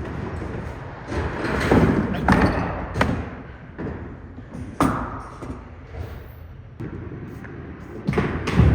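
Five-pin bowling: a small bowling ball rumbling down the lane, then knocking into pins. There are several sharp knocks and thuds, with a louder clatter near the end.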